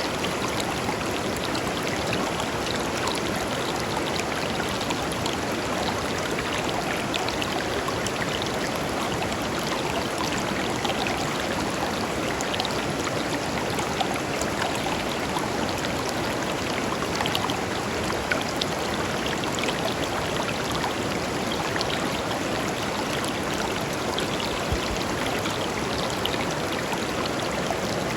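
A shallow river running steadily over stones, a continuous rushing and babbling flow with small splashes.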